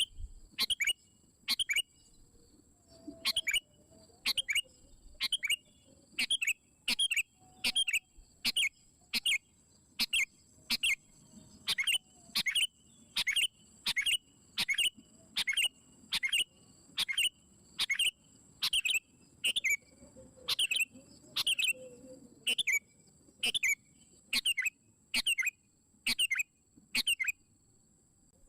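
Sooty-headed bulbul calling steadily: short, sharp chirps repeated every second or so, often in pairs.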